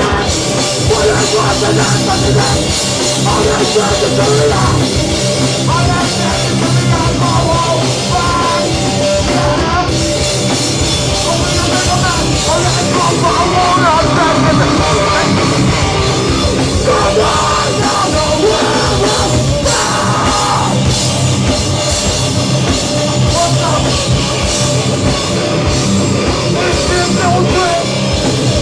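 Live hardcore band playing loud and steady: distorted guitars, bass and drum kit, with shouted vocals over them.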